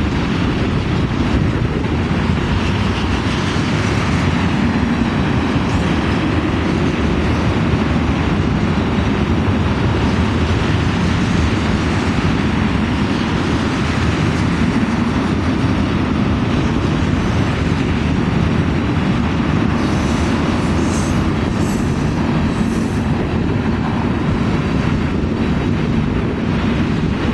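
Norfolk Southern ethanol freight train of tank cars rolling steadily past, its wheels running loud and continuous on the rails.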